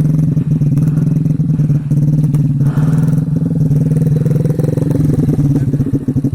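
Motorcycle engine running at a steady speed. Near the end it drops into a slower, pulsing chug.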